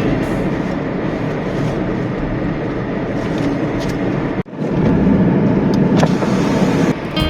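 Car on the move: steady road and engine noise, cut off abruptly about four and a half seconds in and picked up again at once.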